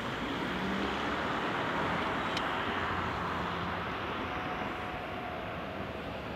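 Steady rushing noise of an electric train approaching a level crossing, with a faint held tone coming in about four seconds in.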